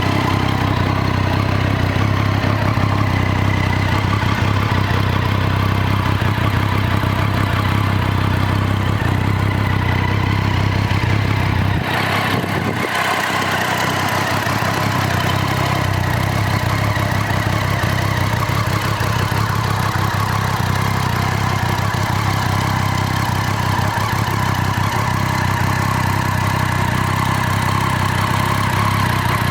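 Triumph Street Triple 675's three-cylinder engine idling steadily.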